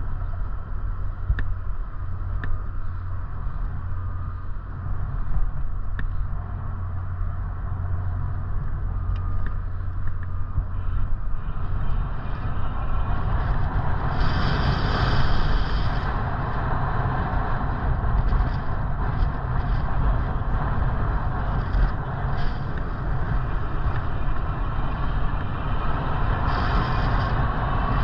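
Steady low rumble of wind and road noise while riding a bicycle. A few faint clicks come in the first few seconds, and a short hiss comes about halfway through and again near the end.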